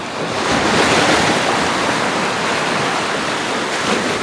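Lake Superior surf: big storm-driven waves breaking and washing up the beach, a loud rushing that swells about a second in and stays strong.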